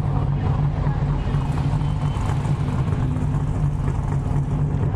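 Car engine running steadily, an even low drone that holds at a constant speed.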